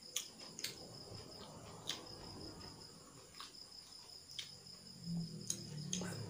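Cricket chirping in a steady, fast pulsing trill, with a few sharp clicks scattered through it. A low hum comes in near the end.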